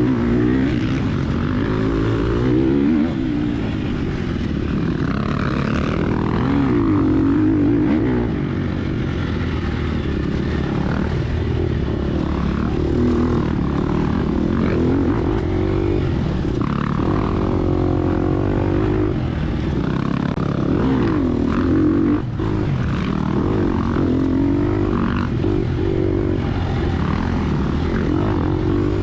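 Gas Gas EX250F four-stroke single-cylinder dirt bike engine being ridden hard, its pitch rising and falling every second or two as the throttle is opened and shut.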